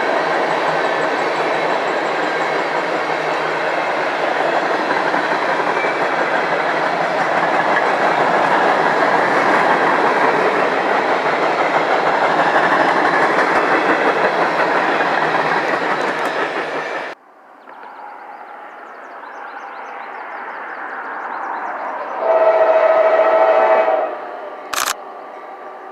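Train passing close by, its wheels and cars making a loud, steady rumble with clickety-clack, which cuts off suddenly about two-thirds of the way through. A quieter train sound then builds, a train horn gives one blast of about a second and a half near the end, and a sharp click follows.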